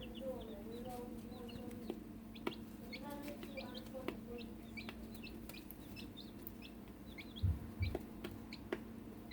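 Silkie chicks peeping in many short, high chirps while they eat, with scattered sharp taps and a steady low hum underneath; two dull low thumps come about three-quarters of the way in.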